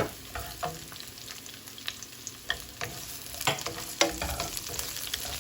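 Chopped onion, ginger and garlic sizzling in hot olive oil in a frying pan, stirred with a utensil that clicks and scrapes against the pan now and then.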